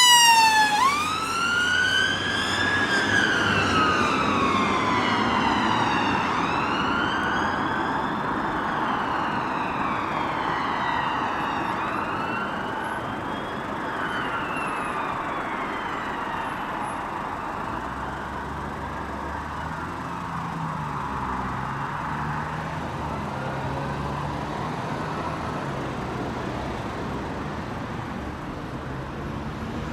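An emergency vehicle's siren wails, rising and falling slowly over a few seconds at a time, and fades as the vehicle moves away. Low traffic and engine rumble comes up underneath in the second half.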